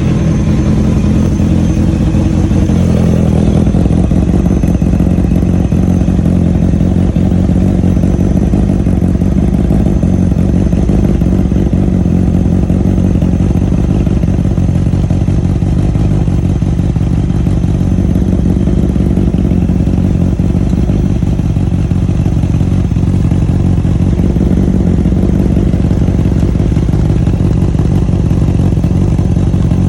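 Honda 650 inline-four motorcycle engine breathing through a Termignoni aftermarket exhaust, idling steadily with no revs.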